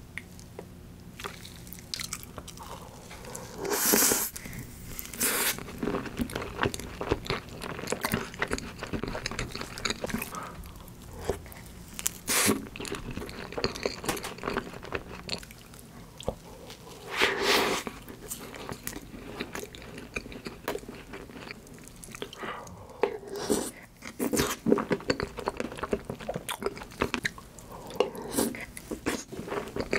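A person eating: chewing and biting food, with many small crunchy clicks and a few louder noisy bursts, one about four seconds in and another past halfway.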